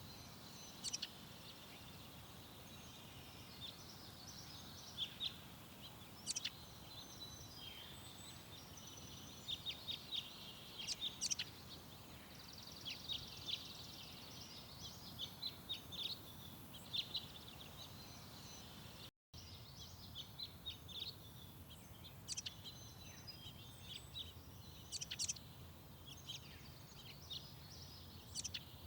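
Small garden songbirds chirping and calling in quick, short notes, scattered throughout, over a steady low background rumble. The sound cuts out briefly about two-thirds of the way through.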